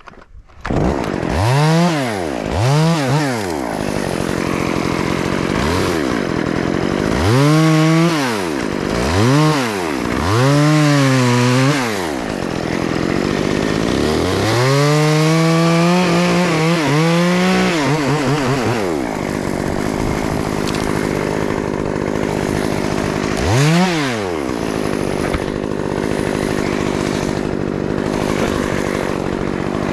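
Two-stroke chainsaw starting up loud about half a second in, then idling between repeated quick throttle blips that rise and fall in pitch. About halfway through it is held at high revs for several seconds.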